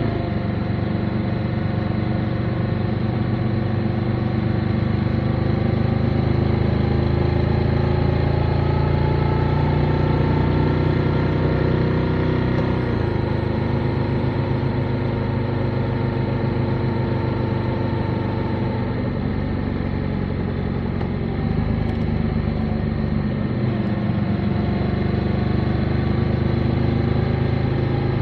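Motorcycle engine running on the road, its pitch rising and falling with the throttle, with clear drops in pitch about halfway through and again a few seconds before the end.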